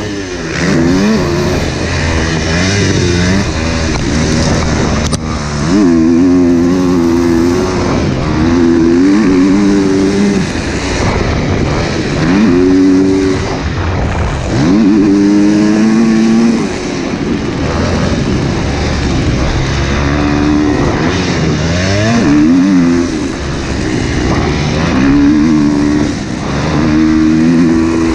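Husqvarna motocross dirt bike engine revving hard and shifting while being ridden around a track: the pitch repeatedly climbs, drops at each gear change or throttle-off, and climbs again, over a steady rush of noise.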